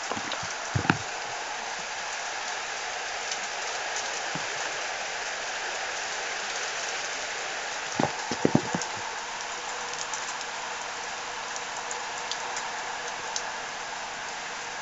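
Heavy thunderstorm rain falling steadily as an even hiss. Several short, louder knocks come through it about a second in and again in a quick cluster about eight seconds in.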